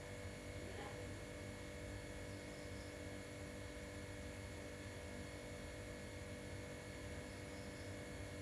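Faint steady hum with several constant tones, like electrical hum in a small room, and a brief faint sound about a second in.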